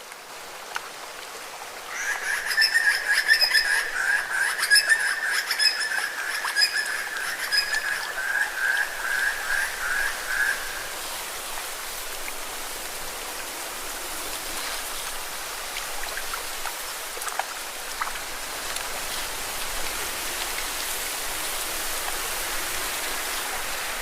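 Lake water washing against rocks as a steady hiss. About two seconds in, an animal starts a long, high trill, the loudest sound here, which breaks into separate pulses and stops around ten seconds in.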